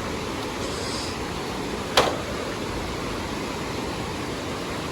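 Steady rushing of falling water from a waterfall, with one sharp click about two seconds in.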